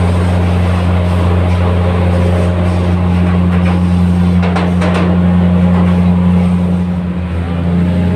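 Diesel train running with a steady, deep engine drone and rumble, with a few faint brief knocks about halfway through.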